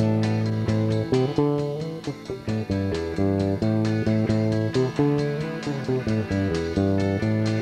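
Small rock band playing live with electric guitar and bass guitar, sustained chords over a steady beat, in a rough, poorly recorded sound.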